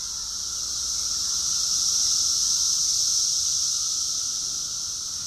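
A dense chorus of cicadas calling together: a steady, deafening high-pitched drone that swells a little in the middle.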